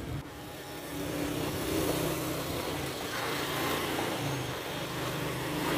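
A motor vehicle's engine running close by in street traffic, a steady low hum with road noise that grows louder after the first second.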